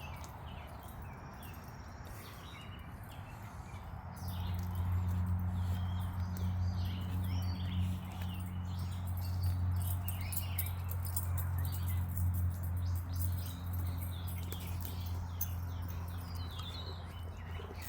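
Small birds chirping repeatedly in woodland. A steady low hum comes in about four seconds in and stays under the chirps.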